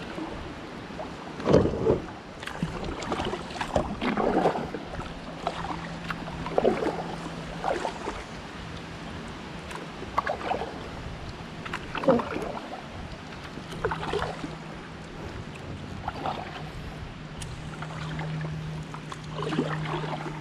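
Kayak paddle strokes, the blades dipping and splashing in the water in a steady rhythm about every one to two seconds. A faint steady low hum comes in about five seconds in and grows a little stronger near the end.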